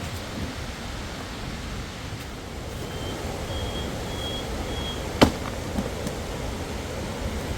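Steady rushing of waterfall water. Four short high peeps sound in a row from about three seconds in, and a single sharp knock comes just after five seconds.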